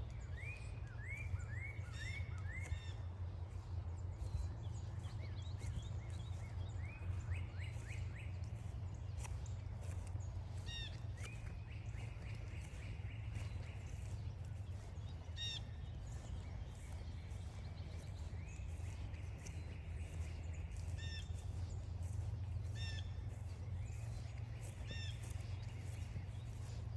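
Several songbirds calling and singing: runs of quick down-slurred whistled notes, a few repeated sharp calls, and steady trills lasting two to three seconds each, over a steady low rumble.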